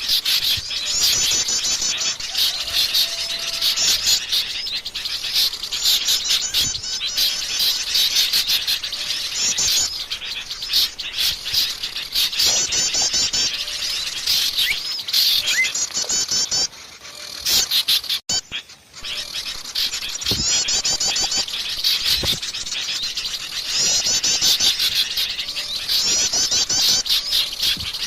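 A dense chorus of small songbirds chirping and twittering, with a rapid high trill that recurs every few seconds. The sound dips briefly about two-thirds of the way through.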